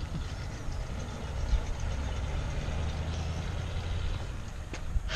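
Old sedan's engine running as the car pulls away, a steady low rumble, with a sharp click near the end.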